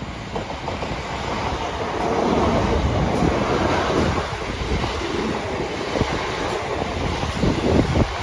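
A train running past, its rumble building about two seconds in and holding steady, with a few sharp wheel clicks over the rail joints near the end.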